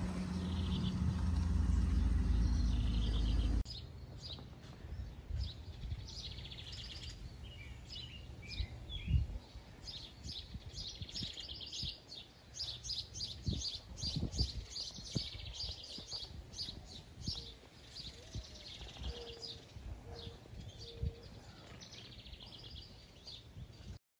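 Small birds chirping and singing in quick, repeated high notes. For the first three and a half seconds a loud low rumble covers them, then cuts off sharply.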